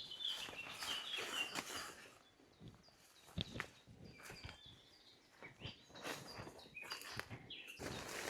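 Footsteps walking at an uneven pace, with small birds chirping high and briefly several times, most in the first two seconds.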